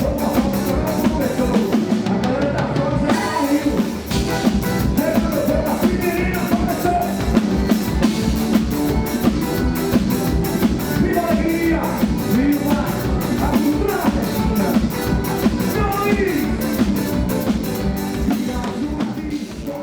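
Live band music dominated by a close-miked drum kit keeping a steady, even beat, with a voice singing over it.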